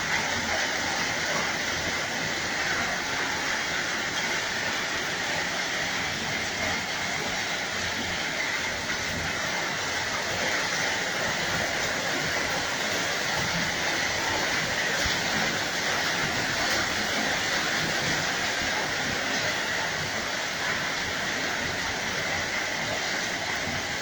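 Steady rain: a continuous even hiss with no thunderclaps.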